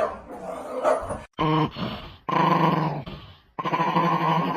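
A dog giving short barks, then long drawn-out growls, each starting and stopping abruptly.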